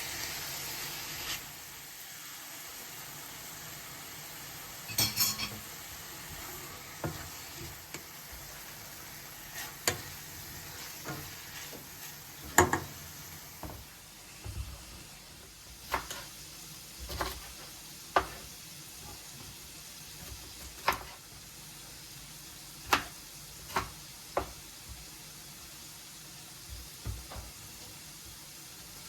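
Food sizzling in a pan, with a utensil stirring and knocking against the pan about fifteen times at irregular intervals.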